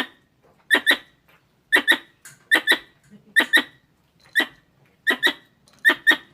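Squirrel calling with sharp, short chirps, mostly in quick pairs, repeated about every three-quarters of a second: the calls used to lure squirrels.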